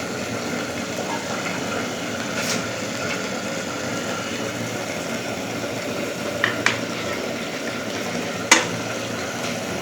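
Steady hiss of the biryani pot cooking on the stove. A few short metal clinks of a utensil or lid come about two and a half, six and a half, and eight and a half seconds in.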